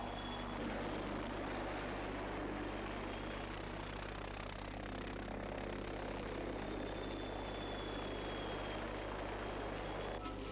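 A BO-105 (PAH-1) light helicopter flying low past the microphone: steady rotor and turbine-engine noise. There is a change in the sound near the end.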